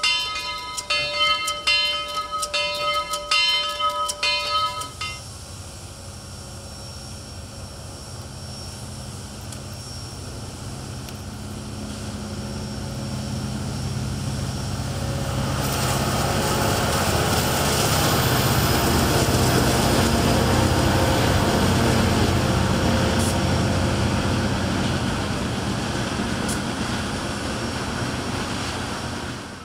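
The bell of Southern Railway 2-8-2 steam locomotive No. 4501 rings steadily and stops about five seconds in. A freight train of tank cars then rolls past on the next track. Its rumble and wheel noise build up and hold loud, then cut off just at the end.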